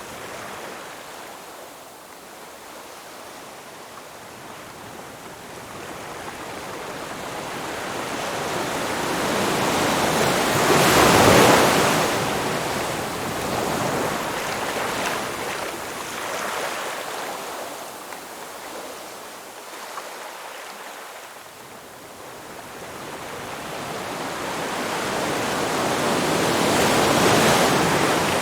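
Ocean surf washing onto a shore. The wash swells to a loud peak about eleven seconds in, eases off, then builds to a second peak near the end.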